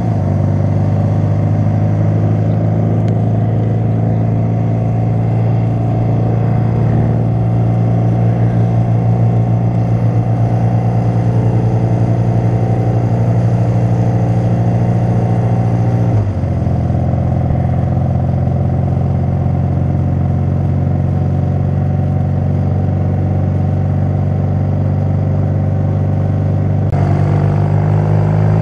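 BMW motorcycle engine running steadily while riding along, heard from the handlebars. The engine note steps down once about halfway through and climbs again near the end.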